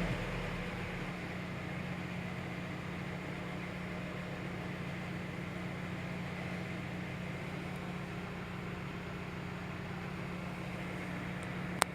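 Car engine idling steadily after settling from a rev, with one sharp click near the end.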